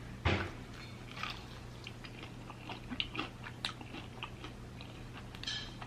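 A bite into a fried chicken wing about a third of a second in, then chewing with many small irregular clicks.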